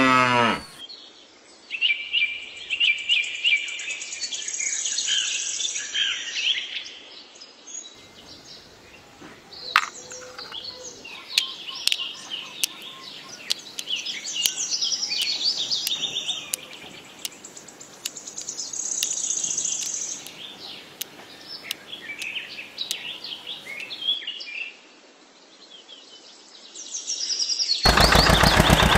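Birds chirping and singing in many short, high calls, with brief pauses between phrases. About a second before the end a loud engine sound cuts in.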